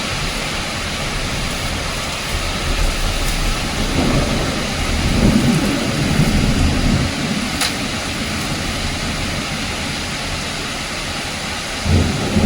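Steady hiss of heavy rain falling, with a low rumble swelling up between about four and seven seconds in and again near the end.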